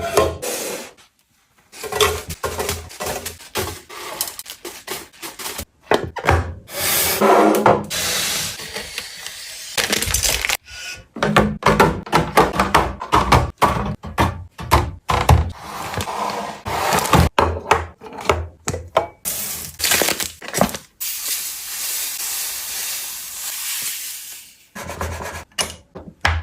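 Food containers and packaging being handled and set down: irregular clicks, knocks and taps mixed with rustling and scraping, and a steady hiss of several seconds near the end.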